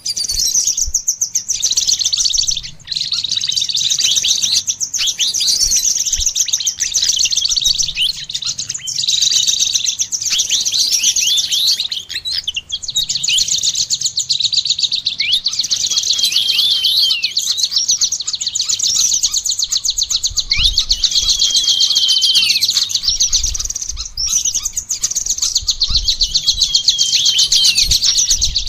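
Continuous rapid, high-pitched songbird twittering and chatter, with quick falling whistled notes woven through it. It is a mix of songbird songs built around the olive-backed sunbird (kolibri ninja).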